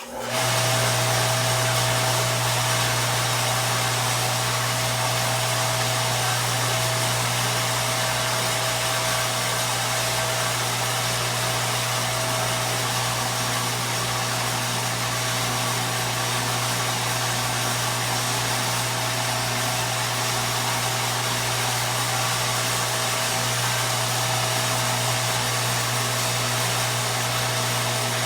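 A motor running steadily at constant speed, with a low hum and a fixed whining tone over a hiss. It starts abruptly and does not change.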